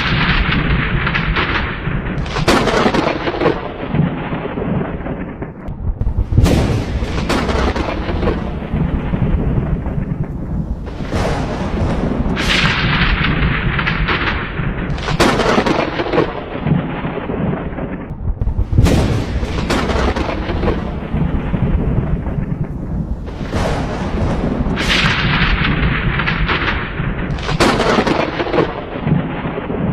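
Thunderstorm: steady rain with rolling thunder, a crack and rumble about every few seconds, each dying away into the rain.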